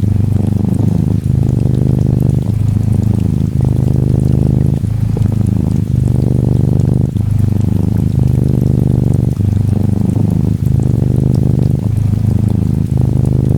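Norwegian Forest Cat kitten purring close to the microphone: a steady low rumble that breaks briefly with each breath, about once a second. Faint rain patters behind it.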